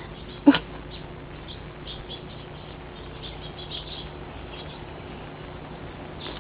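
Small birds chirping faintly and on and off in the background, over a steady low hum. A single brief loud sound comes about half a second in.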